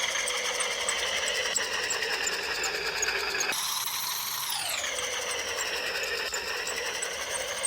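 Small electric power tool running with a steady whine. The pitch glides down and settles, then after a sudden break about three and a half seconds in, it drops again and holds.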